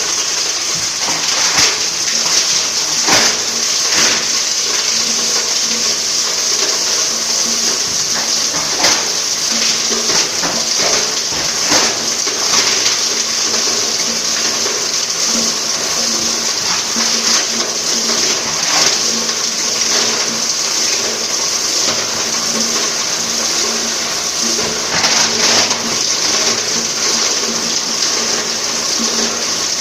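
Plastic crusher (granulator) running steadily: a loud, even rushing noise over a low hum, broken by irregular sharp cracks as plastic pieces are chopped.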